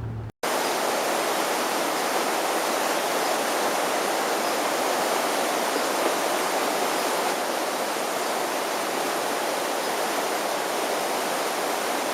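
River in flood rushing past: a steady, unbroken noise of fast-moving water that starts abruptly just after a brief cut.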